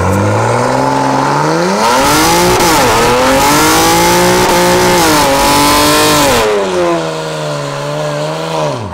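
Car engine revving up and held at high revs for several seconds, wavering in pitch, with a harsh hiss over it from about two seconds in to about six and a half: a burnout with the tyres spinning. It then settles lower and drops away near the end.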